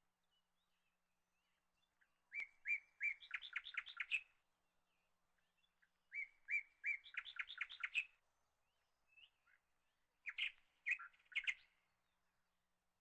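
A songbird singing three short phrases about four seconds apart, each opening with a few separate notes that speed up into a quick run of high notes.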